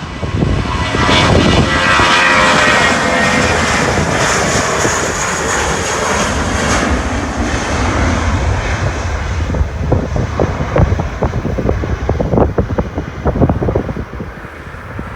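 Jet airliner departing at takeoff power: a loud engine roar with a high whine over it, strongest in the first half, then easing into a lower crackling rumble as it moves away.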